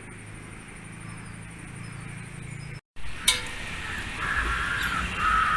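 Crows cawing with harsh calls, two loud caws near the end, after a sharp click. Before that, a steady low hum runs under faint outdoor background.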